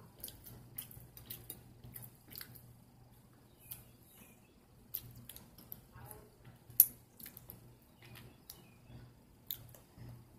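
Close-up eating sounds: chewing with wet lip smacks and mouth clicks coming irregularly, the sharpest about seven seconds in, over a faint steady low hum.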